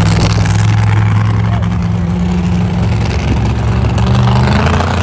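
Monster truck engine running loud with a deep, steady note that shifts in pitch near the end.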